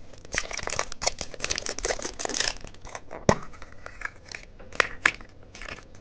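Wrapper of a Kinder egg being torn open and crinkled by hand: a dense rustle for the first two and a half seconds, a sharp snap a little after three seconds, then scattered crinkles and clicks.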